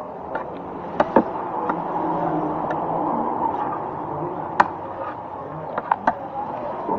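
Steady background hum of a busy eatery, broken by a handful of sharp clinks and knocks of dishes and utensils; the loudest comes about four and a half seconds in.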